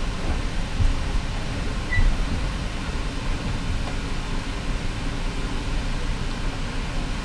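Steady rumble and rail noise of a moving passenger train heard from inside its carriage, with a short knock about two seconds in.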